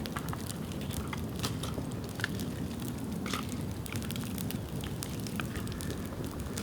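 Bonfire of dry dead bamboo burning, with irregular sharp crackles and pops over a steady low rumble of the flames.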